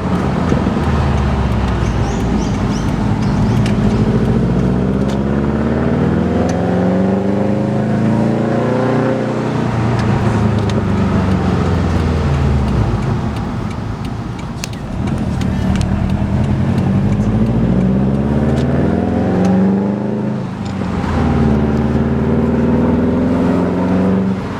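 2011 Subaru WRX STI's turbocharged flat-four, loud through a Tomei Expreme Ti titanium 3-inch single-exit race exhaust, pulling up through the gears. The exhaust note climbs in pitch in each gear and drops at three gear changes.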